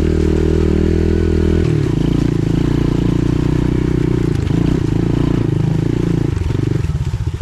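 Pit bike engine running as it is ridden, holding a steady speed and then dropping to lower revs about one and a half seconds in, with uneven throttle near the end.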